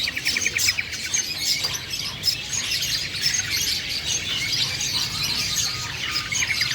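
Long-tailed shrike (black-headed cendet) singing actively: varied high chirps throughout, with a fast rattling chatter at the start and again near the end.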